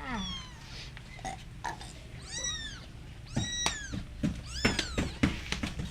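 Three-week-old kittens mewing, several thin high calls one after another, each rising and then falling in pitch, with a few light knocks among them: hungry kittens calling.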